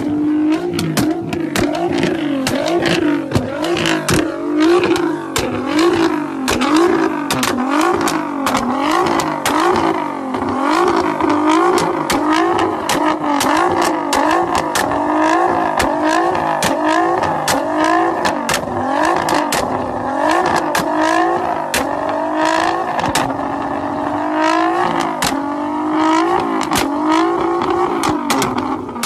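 Nissan GT-R's twin-turbocharged V6 revved over and over, the engine note rising and falling about once a second, with sharp exhaust pops and crackles throughout as it shoots flames.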